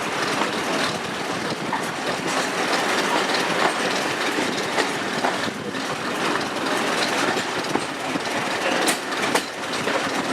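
Train rolling along the track: a steady running noise with irregular clicks and knocks from the wheels over the rails.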